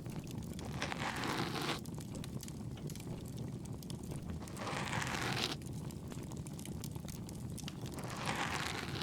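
Ear-cleaning sounds close to the ear: three soft scratchy rustling strokes, each about a second long and roughly three and a half seconds apart, over a steady bonfire crackle of fine pops.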